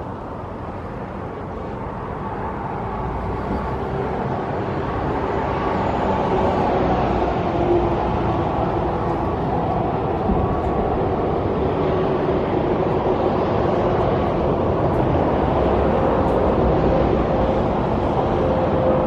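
Steady road and engine noise of a moving car, growing louder over the first several seconds and then holding level.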